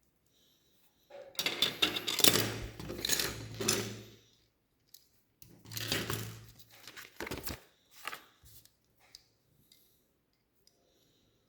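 Small plastic Lego Technic pieces clattering and rattling against each other in two dense bursts, the first about three seconds long and the second about two, then a few separate sharp clicks.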